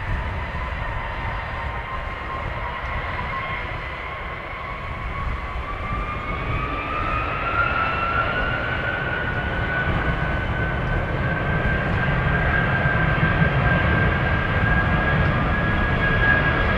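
Jet airliner engines running, their whine rising in pitch about six seconds in and then holding steady, with a low rumble growing louder.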